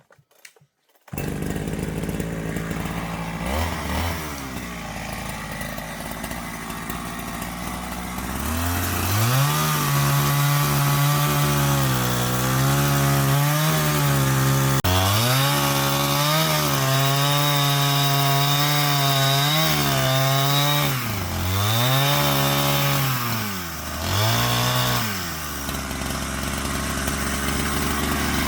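Two-stroke chainsaw starting up about a second in and running at a low speed, then revved hard from about eight seconds in to cut a tree. Its pitch dips briefly several times as the chain bites into the wood, and it drops back to a lower speed near the end.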